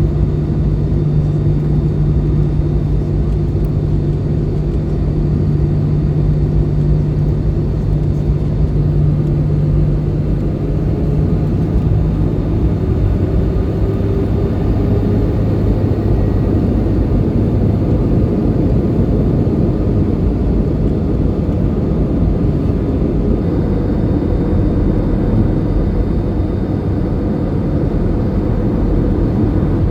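Steady, loud cabin noise of an Airbus A320-200 airliner: engine and air noise heavy in the low end. A low steady hum drops out about twelve seconds in, and a faint rising tone follows.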